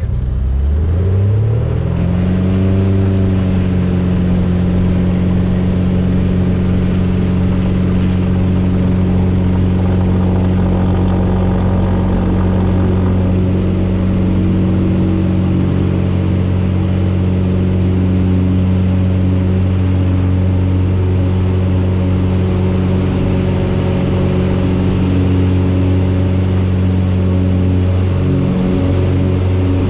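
Cessna 172's piston engine and propeller coming up to full power, rising in pitch over the first two to three seconds and then running steadily at high power, as for the takeoff run and climb.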